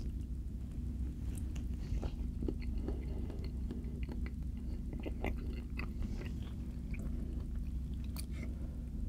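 A person chewing and biting soft food, with many short wet mouth clicks and smacks scattered through, over a steady low hum.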